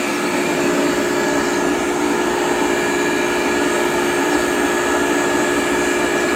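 KICE Waterfall seed aspirator running, its single-phase electric motor and fan giving a steady hum with no irregular noises, and a steady hiss of air drawn in through the open ports with the gate and butterfly valve open.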